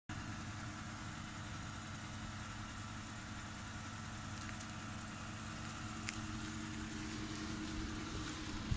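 A 2014 Dodge Charger's engine idling steadily, an even low hum.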